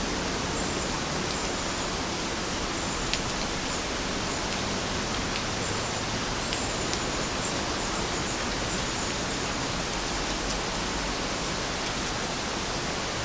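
Steady rain falling, a dense even hiss with occasional sharper drop ticks. Faint high chirps come and go above it.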